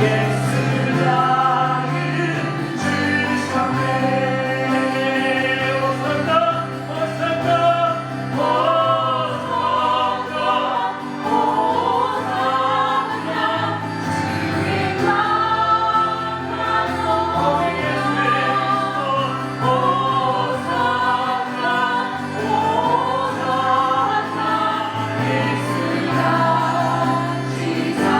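Choir singing a Korean worship song over instrumental accompaniment, with held low notes that shift every couple of seconds.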